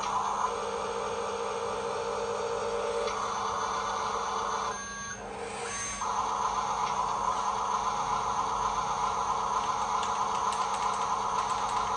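Electric motor and gearbox of a radio-controlled dump truck running steadily with a whirring hum. It cuts out for about a second near the middle, then starts up again.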